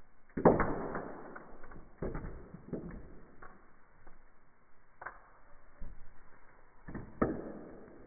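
Chalk being broken apart, with several sharp separate cracks that each die away quickly. The first crack, about half a second in, is the loudest.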